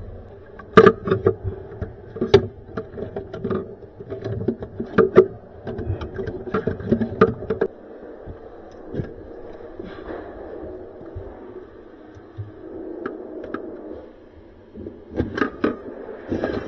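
Irregular clicks and knocks of hands handling the freezer's wires and plastic connectors, joining them back together, busiest in the first half and again near the end.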